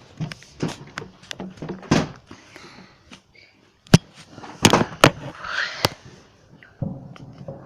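Fireworks going off: a run of sharp bangs and cracks, the loudest about four seconds in, with a quick cluster around five to six seconds.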